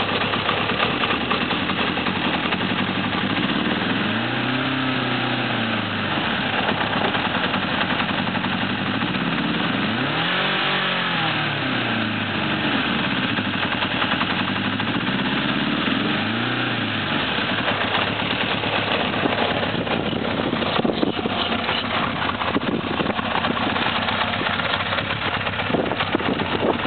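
1982 Honda CB900F's air-cooled inline-four engine idling shortly after a cold start, blipped up three times, each rev rising and falling back to idle over about two seconds: throttle held up for an alternator charging check. It runs on all four cylinders.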